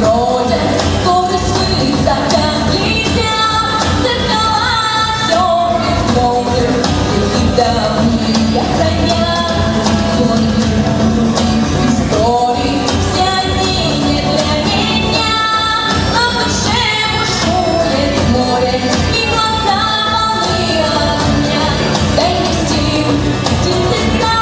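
A woman singing a pop song over a full instrumental accompaniment with a steady beat; her voice carries a melody that slides between notes.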